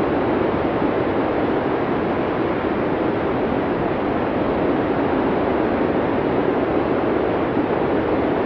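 Blizzard wind: a steady, deep rushing noise with no gusts, breaks or other events.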